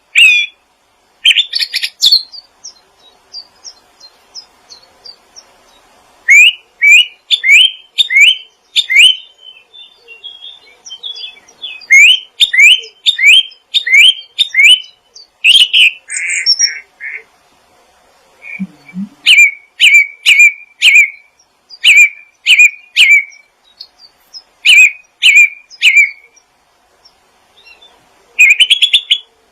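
Small songbird chirping: sharp, high chirps, each a quick downward-sliding note, about two a second, in runs of several notes broken by short pauses.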